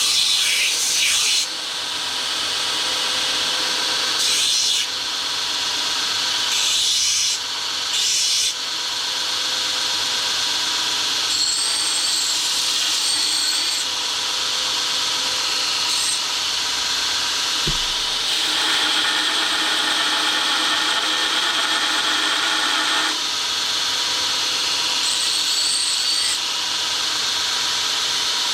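Grinder running with a forged steel punch held against it for shaping: a steady abrasive grinding hiss, with four short louder surges in the first nine seconds as the steel is pressed on harder.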